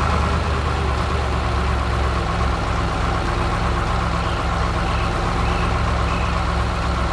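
Heavy construction-vehicle engine sound effect, running steadily with a deep, even rumble.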